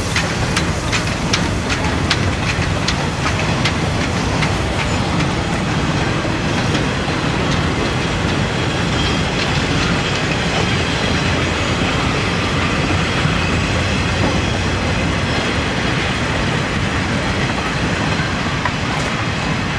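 Freight cars rolling past behind a steam locomotive, steel wheels clicking over the rail joints. Sharp clicks come thickest in the first several seconds, then the sound settles into a steady rumble of wheels on rail.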